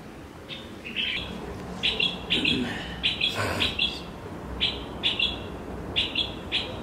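Birds chirping: short, high chirps in quick runs of two or three, repeating every second or so.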